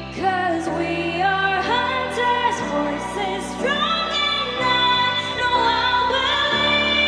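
Pop song with female vocals over a backing track, the voice bending between notes and then holding long sustained notes with no clear words.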